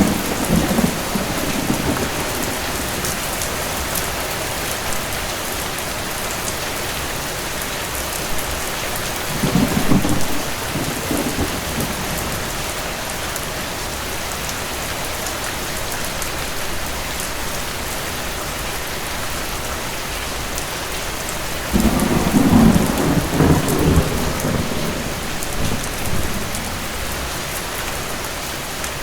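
Steady rain with distant thunder rumbling three times: briefly near the start, again about ten seconds in, and longest and loudest about twenty-two seconds in.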